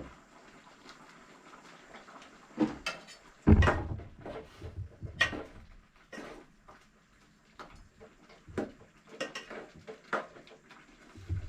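Scattered household knocks and clatters, as of things being handled in a kitchen: about a dozen separate knocks, the loudest a heavy knock with a dull thud about three and a half seconds in.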